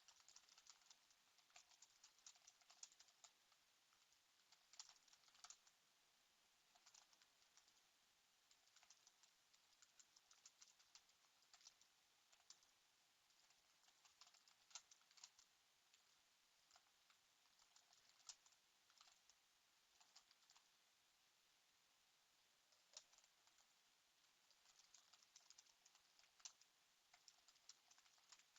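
Faint typing on a computer keyboard: quick runs of key clicks in irregular bursts, with a lull of a few seconds about two-thirds of the way through.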